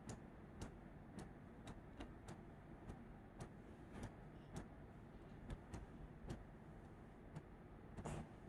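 Faint light clicks, irregularly spaced at about one or two a second, over quiet room tone.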